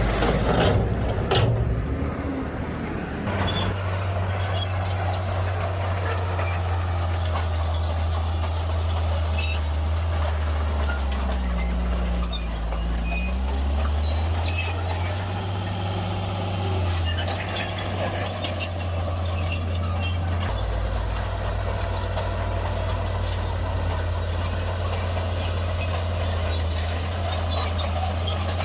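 Heavy diesel earthmoving machinery running steadily, its low engine note dipping and coming back up about halfway through as the load changes, with a couple of sharp knocks near the start.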